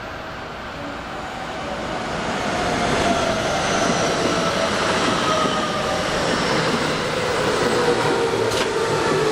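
JR West 221 series electric train rolling close past, its rumble swelling over the first few seconds and then holding steady. A whine in it falls slowly in pitch as the train slows, and a sharp click comes near the end.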